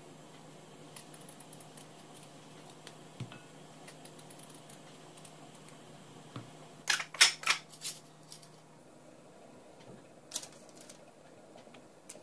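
A quick cluster of sharp clicks and clatters, like small hard objects being handled, about seven seconds in, with a few single clicks elsewhere, over a faint steady hum that stops near nine seconds.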